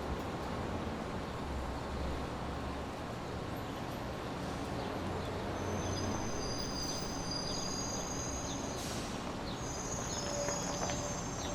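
Steady brown noise: a deep, even hiss that stays constant throughout, with faint thin high-pitched tones appearing about halfway through.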